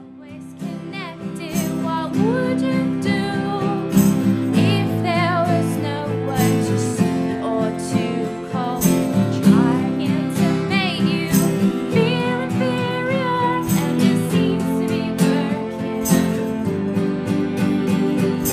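Live acoustic band music: a woman singing a melody with vibrato over strummed acoustic guitar and sustained low chords.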